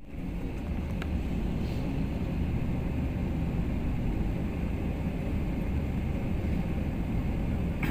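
Jet airliner taking off: a steady low rumble of the engines at takeoff power, with a faint click about a second in.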